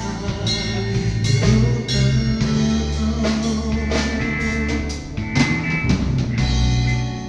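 Band playing an instrumental passage between sung lines of a gospel song, with drum kit, bass and guitar.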